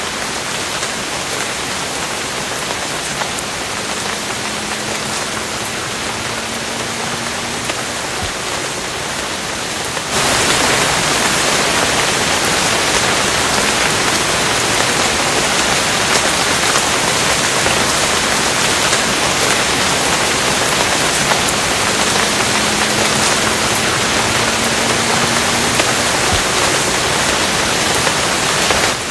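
Steady rainfall: a dense, even hiss of falling drops. About ten seconds in it abruptly gets louder and brighter, dropping back near the end, and a faint low hum comes and goes twice under it.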